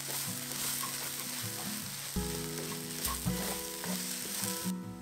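Shrimp, diced vegetables and egg sizzling in a hot stainless steel wok while being stirred with a wooden spatula, over soft background music. The sizzle cuts off suddenly near the end.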